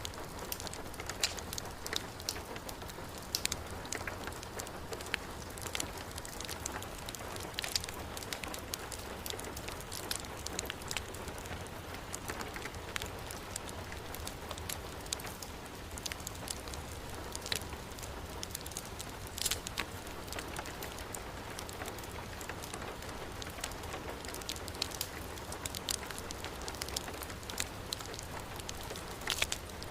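Steady heavy rain mixed with a crackling wood fire in a fireplace, with scattered sharp pops throughout.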